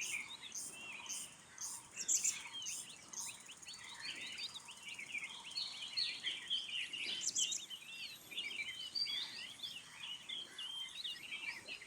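Natural forest ambience with many small birds chirping and twittering at once: quick, short, overlapping high calls. A high, evenly repeated pulse runs for the first few seconds.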